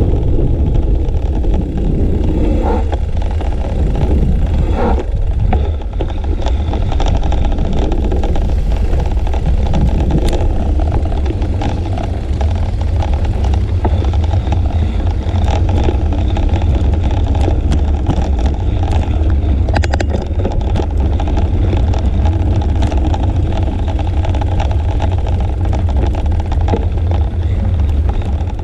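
Wind rumbling steadily on the microphone of a bike-mounted GoPro while riding along a road, a loud low rumble with road noise over it.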